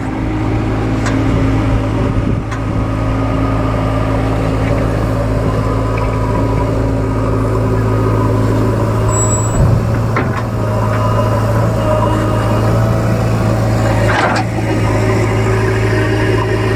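Heavy diesel engine running steadily at an even speed, with a few scattered knocks, the loudest near the end.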